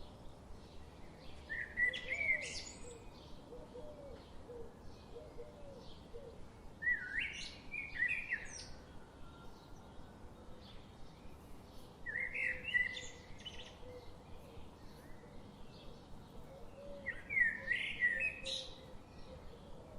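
A bird singing: four short song phrases about five seconds apart, with fainter chirps in between.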